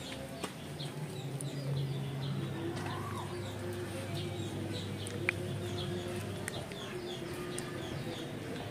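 Small birds chirping over and over in quick short notes, against a low steady outdoor background, with one sharp click a little after five seconds in.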